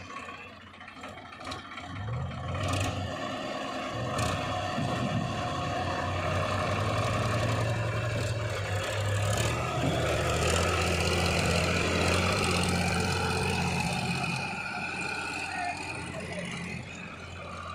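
Heavy diesel machinery engine working under load, swelling about two seconds in and easing off near the end, with a few metallic clanks.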